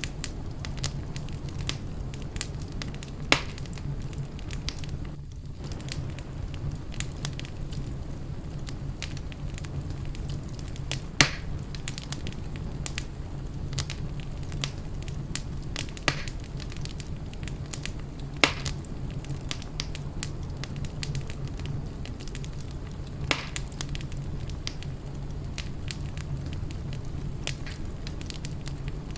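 Wood fire burning in a fireplace: a steady low rumble with constant small crackles and four louder pops.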